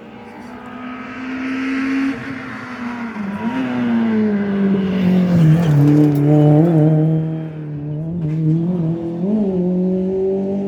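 Rally car engine running hard as the car comes past: its note drops in pitch over the first few seconds, is loudest about six seconds in, then climbs again as it accelerates away.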